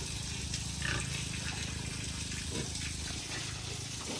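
Pigs grunting briefly about three times, over a steady low background noise.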